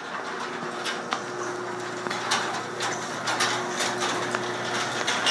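Craftsman 1/2 hp chain-drive garage door opener running as it opens the door: a steady motor hum with the chain and door clattering and clicking along.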